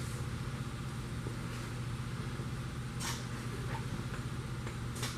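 A steady low hum, with two faint brief scratchy sounds, one about three seconds in and one near the end.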